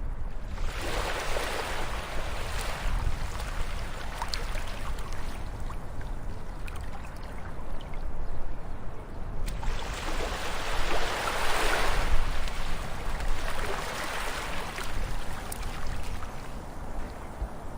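Ocean waves washing in, swelling about a second in and again about ten seconds in, over a steady low rumble of surf.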